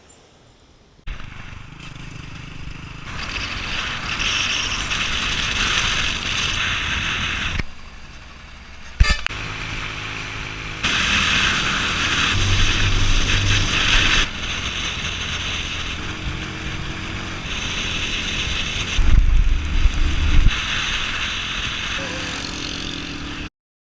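Motorbike riding sounds from a series of short clips cut together: engine running and steady road and wind noise, changing abruptly at each cut, with a sharp click about nine seconds in. It cuts off suddenly just before the end.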